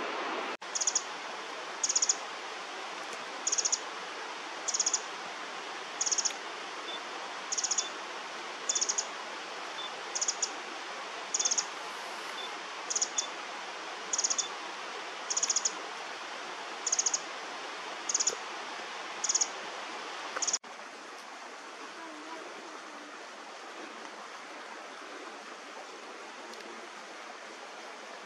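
A small bird repeats a short, high, buzzy call about every second and a quarter, some fifteen times, over the steady rush of a creek. The calls stop about twenty seconds in, leaving only the rushing water.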